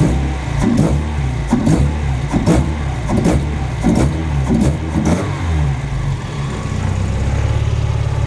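Mazda MX-5's 1.6 twin-cam four-cylinder engine revved in a quick series of short throttle blips, each rising and dropping back fast, then settling to a steady idle about five and a half seconds in. The revs fall quickly, which the owner puts down to a light flywheel or cams.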